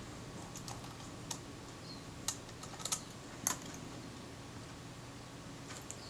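A few light, scattered clicks and taps of small metal camera parts and tools being handled, over quiet room tone.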